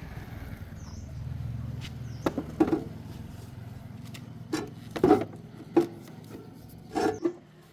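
Scattered knocks and clinks of tools and parts being handled during bicycle repair work, over a low steady hum.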